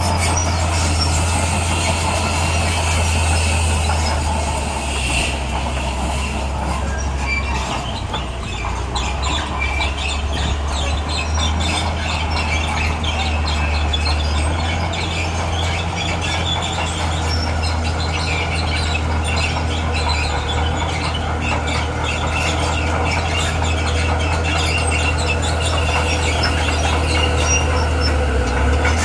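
Bulldozer working: its diesel engine drones steadily and low, under a continuous high metallic squealing and clatter, the kind that comes from crawler tracks.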